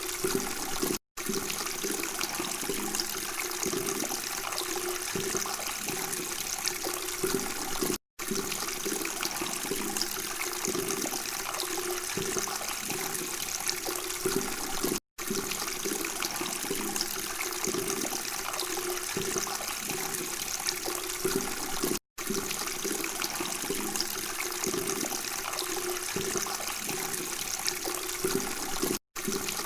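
Running water babbling steadily, with a brief cut to silence about every seven seconds where a short recording loops.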